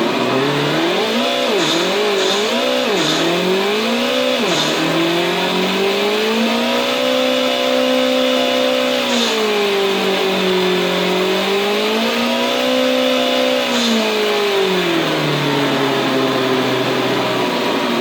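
Simulated car engine sound from an ESS ONE PLUS RC sound module, revving with the transmitter throttle. A few quick blips come in the first seconds, then two longer, smoother climbs in pitch that hold and drop back toward idle, with a few faint clicks at some of the blips.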